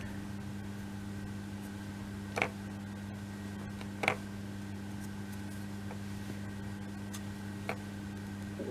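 Steady low electrical hum, with three faint clicks as laser-cut kit parts are handled and pressed into place: one about two and a half seconds in, one about four seconds in, and one near the end.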